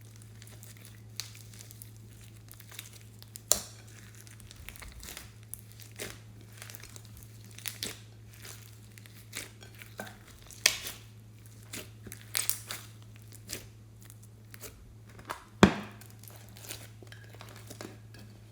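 Slime being squeezed and stretched by hand, giving irregular sticky pops, crackles and crinkles, with a few louder snaps, about 3.5, 10.5 and 15.5 seconds in. A steady low hum runs underneath.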